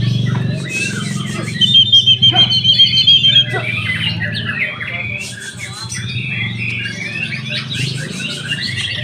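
Several white-rumped shamas (murai batu) singing over one another in varied notes and calls, with a fast run of repeated sharp notes from about two to three and a half seconds in. A low murmur of people's voices runs underneath.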